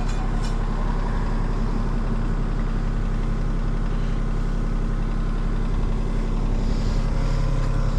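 Kubota compact tracked machine's diesel engine running steadily at idle, its track thrown off.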